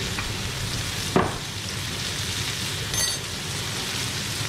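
Butter sizzling in a frying pan on low heat, with chillies, lemon slices and ginger frying in it: a steady sizzle. A sharp tap comes about a second in, and a light metallic clink about three seconds in.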